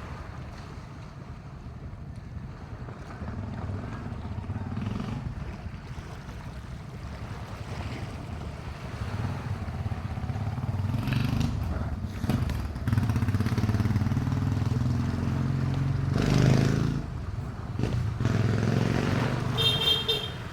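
A small engine running steadily with wind noise, getting louder through the second half. There is a louder rushing surge about three quarters of the way in and a brief high-pitched tone near the end.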